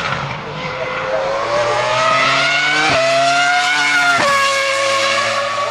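Race car engine accelerating hard, its pitch climbing through the gears, with a quick upshift about three seconds in and another just after four seconds.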